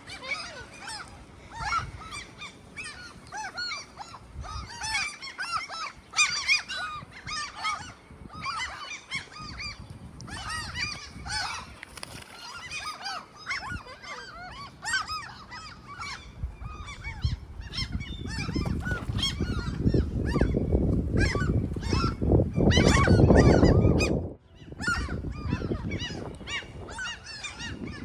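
A flock of great black-backed gulls calling over and over, many short overlapping calls. Strong wind buffets the microphone with a low rumble that builds in the second half, is loudest just before it cuts off about three-quarters through, then returns more lightly.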